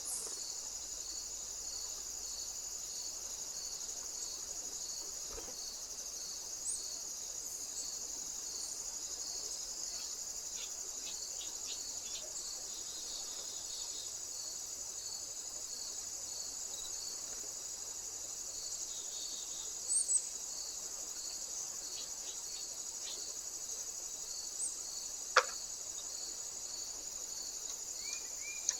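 Insects trilling steadily at a high pitch, with a second insect pulsing underneath at about one and a half beats a second. A few faint ticks are scattered through, and there is a sharp click about 25 seconds in.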